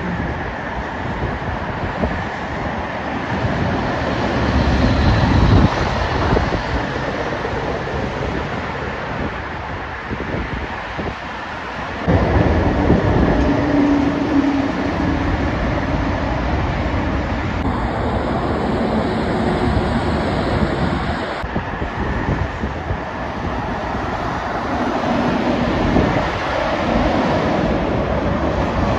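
Heavy trucks driving past on a main road: deep diesel engine notes and heavy tyre and road noise that swell and shift in pitch as they pass, with sudden changes about six and twelve seconds in.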